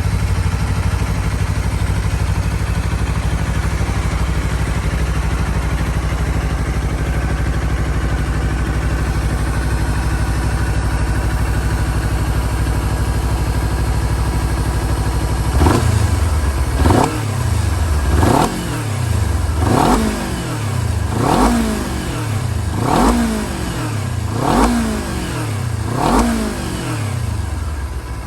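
Honda CBR250RR motorcycle engine idling steadily, then blipped eight times about every second and a half from about halfway through, each rev rising and falling quickly before dropping back to idle.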